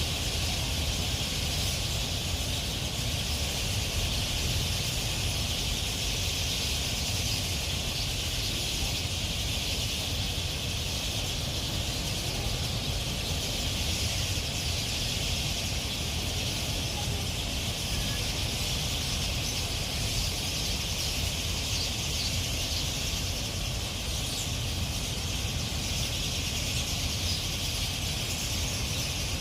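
A large gathering of birds chirping all at once in a dense, continuous chorus, over a steady low rumble.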